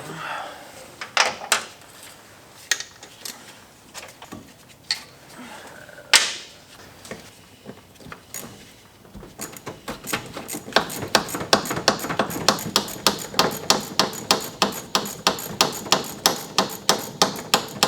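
Hand tools working on metal parts: scattered clanks and knocks, then from about halfway an even, rapid run of metallic clicks, about four a second.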